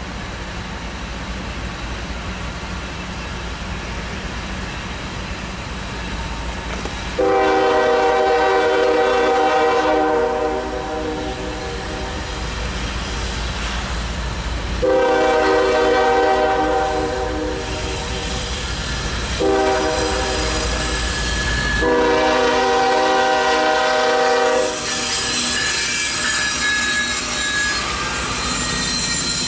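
Approaching diesel freight locomotive, a GE ES40DC leading a loaded coal train, sounds its horn in the grade-crossing pattern: long, long, short, long. Its rumble builds beneath the horn, and near the end high wheel squeal and rail noise take over as it passes.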